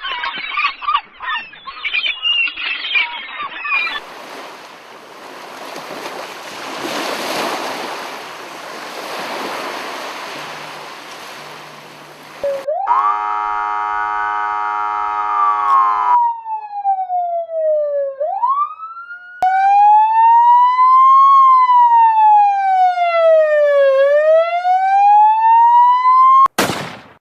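A run of separate sound effects: first a busy patter of short sharp sounds, then a rushing noise that swells and fades away. About halfway through a siren comes in, gliding up and down, and settles into a police-style wail that sweeps up and down about every two and a half seconds. It is cut off near the end by a short sharp burst.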